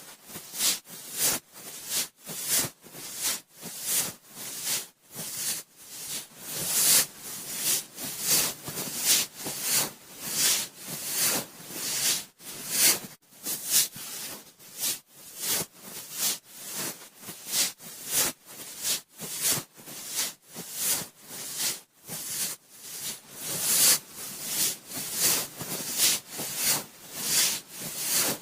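Cotton swab swirling and rubbing in the ear of a binaural microphone: close, scratchy rustling strokes, about two a second, without a break.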